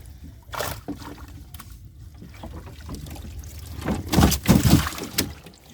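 Water sloshing and splashing around a small fishing boat, with louder splashing about four to five seconds in.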